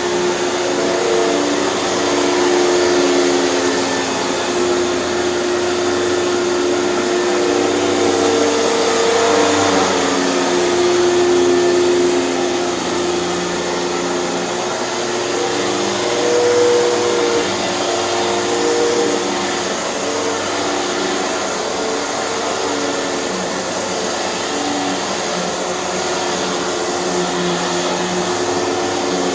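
Hoover canister vacuum cleaner with its TurboPower 5000 power nozzle running steadily on carpet. The pitch of its motor hum shifts slightly now and then.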